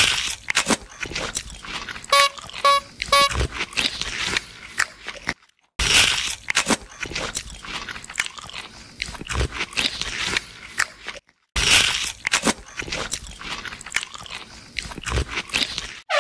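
Cartoon eating sound effect: rapid, loud crunching and chewing of food, in three long stretches broken by two brief silences, about five and eleven seconds in. A few short beeps sound about two to three seconds in.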